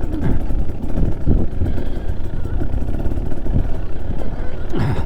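Trail motorcycle engine running under a changing throttle, its pitch rising and falling several times over a dense low rumble.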